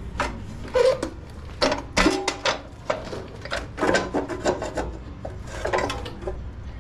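Irregular scraping and knocking of metal parts being handled as a garden tiller's drive belt is fitted around its pulley and idler roller.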